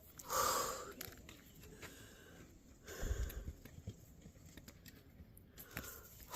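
A person breathing hard while resting after a steep climb at high elevation: heavy, out-of-breath breaths, the loudest about half a second in and weaker ones later.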